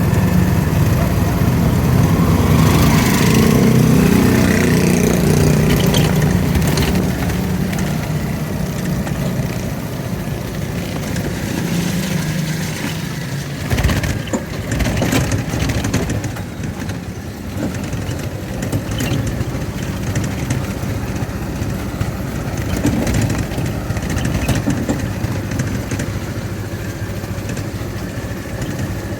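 Motorcycle engine running while riding, louder for the first several seconds and then easing off. A single knock comes about fourteen seconds in.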